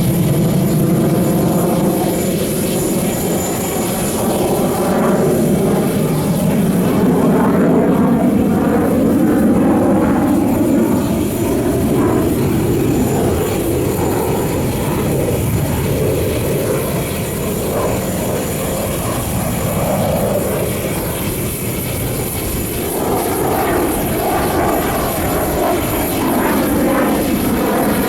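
Jet fighters' engines roaring through an aerobatic display, a continuous heavy rumble whose pitch sweeps up and down several times as the jets pass by. The jets are the Russian Knights' Su-30SM fighters, each with two turbofan engines.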